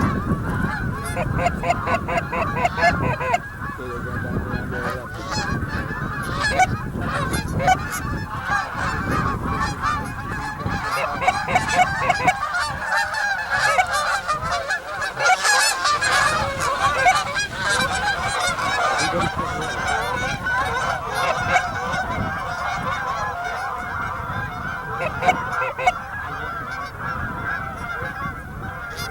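A large flock of geese honking and calling, many overlapping calls in a dense, continuous chorus.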